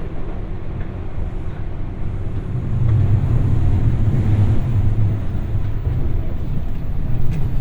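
Inside a JR West 201 series electric motor car (MoHa 201) at speed: a steady low rumble from the wheels and traction motors, growing louder about two and a half seconds in.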